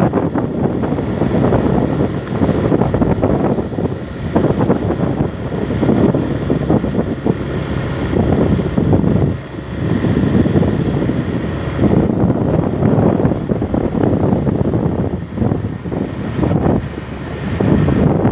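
Loud, uneven rumble of wind buffeting the microphone, with the running noise of a moving vehicle beneath it.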